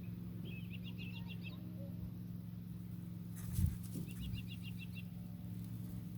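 A small bird singing a quick trill of about seven high notes, twice, over a steady low hum. A single thump comes about halfway through.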